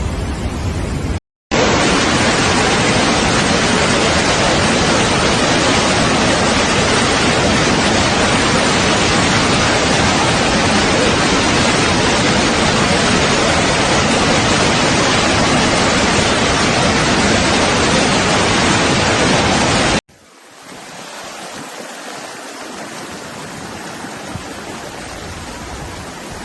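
Loud, steady rushing noise with no pitch or rhythm, broken by a short gap about a second in. About 20 seconds in it cuts abruptly to a quieter, steadier rush.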